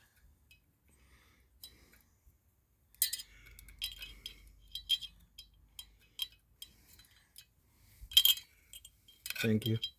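Scattered light metallic clinks and taps of small parts and hand tools being handled. It is almost silent for the first few seconds, and the sharpest clink comes about eight seconds in.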